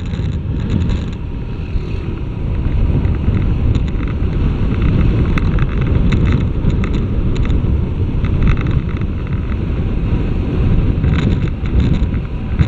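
Wind rushing over the microphone of a moving motorcycle, mixed with road and engine noise, growing louder over the first few seconds as the bike gathers speed.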